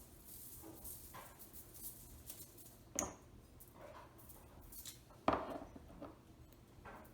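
Kitchen handling sounds while raw chicken is seasoned: faint taps and rustles, with two sharp knocks or clinks about three and five seconds in, the first with a brief high ring, like a seasoning container or utensil being set down.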